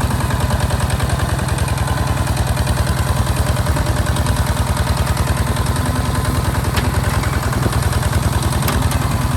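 Diesel engine of a Hinota HG Gold 155 DI tractor running steadily, with a rapid, even pulsing beat that does not change through the stretch.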